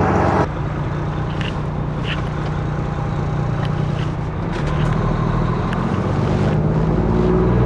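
Semi truck's diesel engine idling steadily, with a loud rush of noise that stops about half a second in and a few light clicks.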